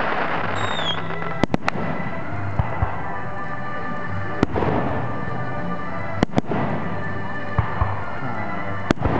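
Fireworks display: a dense crackle in the first second and a short falling whistle, then sharp aerial shell bangs at irregular intervals, three in quick succession about a second and a half in and a pair past six seconds.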